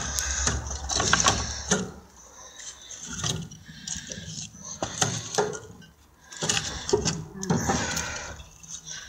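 Irregular knocks, clicks and rustling scrapes of objects being handled.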